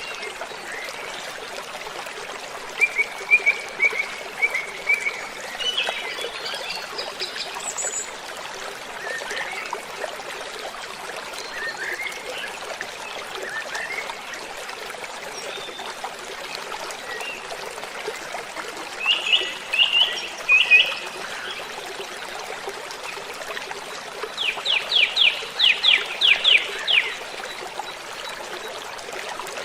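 Steady rush of a waterfall, with birds calling over it in short chirps and trills. Near the end a bird gives a quick run of about eight sweeping notes.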